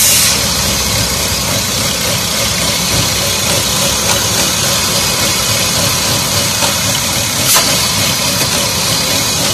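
Car engine idling with the oil filler cap off the valve cover. The crankcase is sucking air at the open filler, a symptom the mechanic traces to a PCV fault. A brief click comes about three-quarters of the way through.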